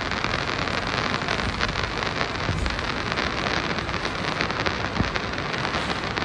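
Moscow Metro 'Moskva' (81-765) train running through the tunnel: a steady dense rumble with an irregular crackling rattle of wheels on rail.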